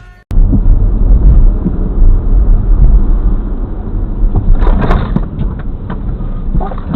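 Loud low rumble of vehicle and road noise picked up by a car-mounted camera microphone, starting abruptly just after the start. A brief brighter sound rises over it about five seconds in and again near the end.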